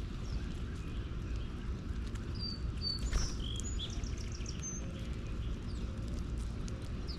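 Birds giving a few short, high chirps between about two and five seconds in, over a steady low outdoor rumble. A sharp tap or click comes about three seconds in.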